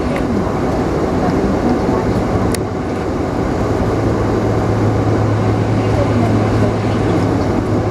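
Background voices over a steady, loud mechanical rumble, with a low steady hum coming in about four seconds in.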